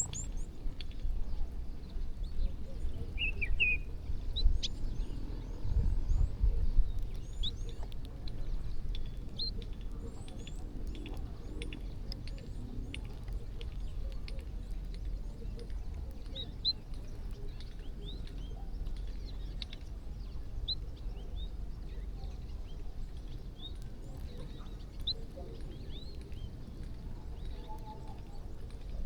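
A flock of small birds chirping at a feeding spot: many short, high chirps scattered throughout. A steady low rumble runs underneath and swells for a moment about six seconds in.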